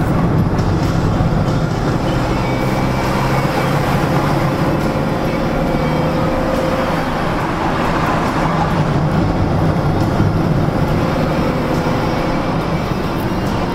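Citroën Xsara 2.0 HDi four-cylinder turbodiesel engine running steadily on a mountain climb, heard from inside the cabin, a low drone mixed with tyre and road noise.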